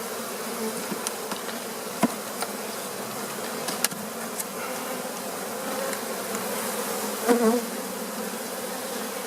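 Honey bees buzzing steadily around an open hive, the hum swelling briefly about seven seconds in. A few light clicks sound over it.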